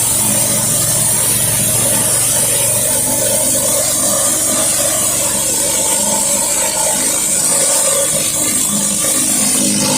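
Pressure washer engine running steadily, with the hiss of high-pressure water spraying from a 16-inch Whisper Wash surface cleaner onto concrete.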